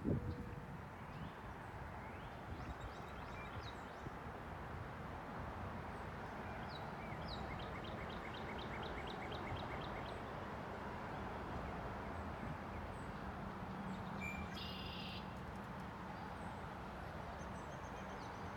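Wild birds calling over a steady background rush of outdoor noise: a rapid run of repeated high notes for a couple of seconds near the middle, then scattered short chirps and a brief burst of calls later on.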